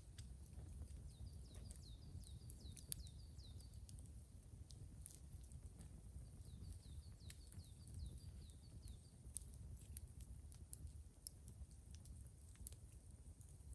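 A small bird singing faintly: two runs of quick, high, downward-sliding notes, about four a second, each run lasting two to three seconds with a pause between. Scattered soft clicks and a low rumble sit beneath.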